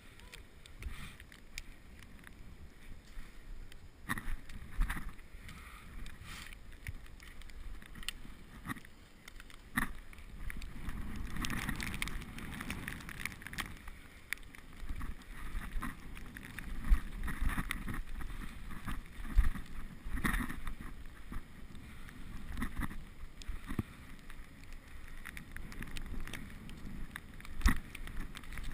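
Riding noise from a bicycle filmed on a GoPro: a steady low rumble of wind on the microphone and tyres on the road, with scattered knocks and rattles from the bike. The noise swells louder at a few points.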